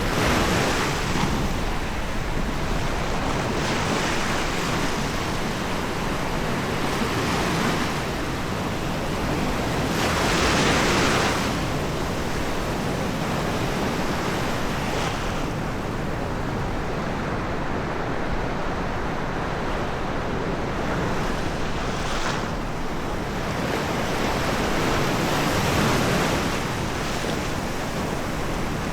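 Small sea waves breaking and washing up a sandy beach, swelling and fading every few seconds, the biggest about ten seconds in, with wind on the microphone.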